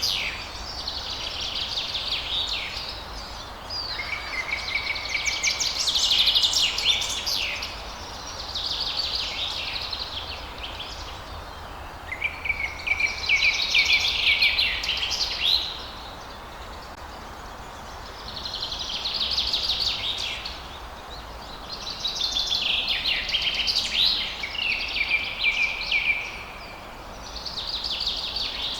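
Songbirds singing in repeated phrases of rapid chirps and trills, each a couple of seconds long with short pauses between, over a steady background hiss.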